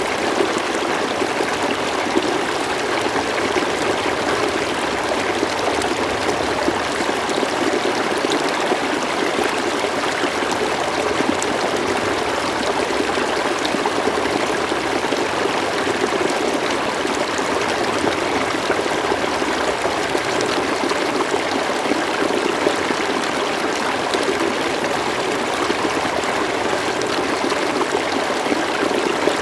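River water flowing and burbling steadily over stones, a constant rushing with no pauses.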